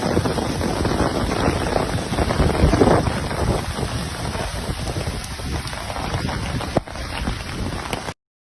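Storm noise of heavy rain and wind, with low rumbling buffets from wind on the microphone. A sharp click comes about seven seconds in, and the sound cuts off suddenly near the end.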